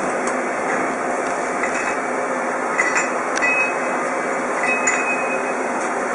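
Steady machine-shop noise from a lathe running, with a few light metallic clinks and brief high squeals about halfway through and again near the end.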